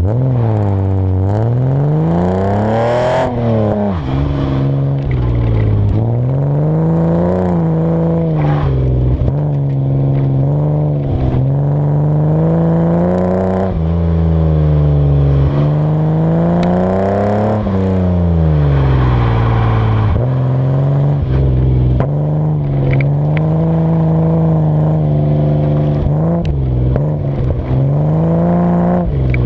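BMW E30's engine revving up and dropping back again and again as the car is driven hard through a rallycross course, heard from under the front bumper. Occasional knocks and clatter from underneath come through over the engine.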